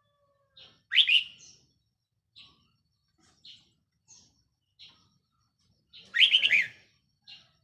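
Red-whiskered bulbul singing: two loud, quick, warbling phrases, one about a second in and one near the end, with short single chirps between them.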